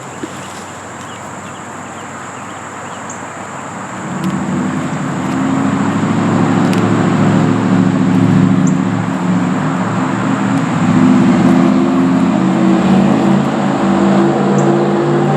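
An engine running that grows louder about four seconds in and then holds with a wavering note, over a steady thin high-pitched whine.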